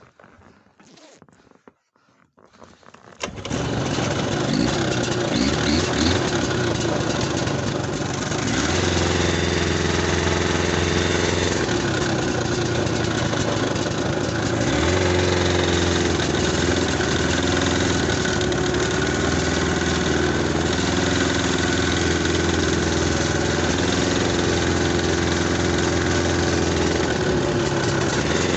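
Buran snowmobile's two-stroke twin-cylinder engine starting about three seconds in, then running steadily, with its engine speed rising and falling a few times. The machine is new and still being run in.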